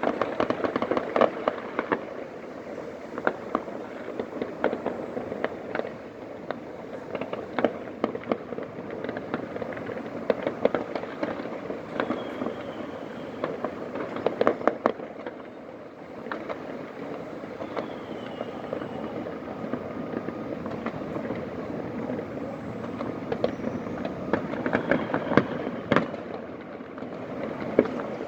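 Many fireworks and firecrackers going off across a city: a continuous crackle of pops with louder bangs scattered through it, busiest near the start, in the middle and near the end.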